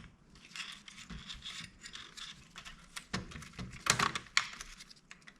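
Small clicks, taps and scrapes of a laptop's mainboard and parts being handled and seated into its plastic case, with sharper clicks about three and four seconds in.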